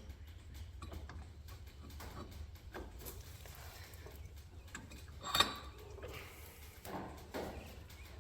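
Metal parts and hand tools clinking and knocking as an ATV's front knuckle and axle are put back together, with one sharper metallic clank about five seconds in and a couple of lighter knocks near the end. A low hum runs underneath.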